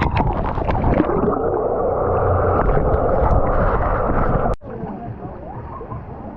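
Loud rushing and splashing water, muffled and close on the microphone; it cuts off abruptly about four and a half seconds in, leaving a quieter water wash.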